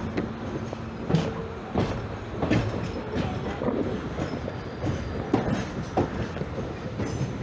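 Indian Railways passenger coach running on the rails, heard from its open doorway: a steady rumble with sharp wheel knocks over the rail joints, about one a second.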